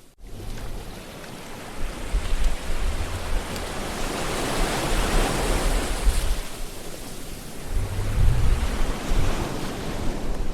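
Ocean waves washing on a shore: a steady surf hiss that swells and eases as waves break, with low rumbles in places. The sound drops out briefly at the very start.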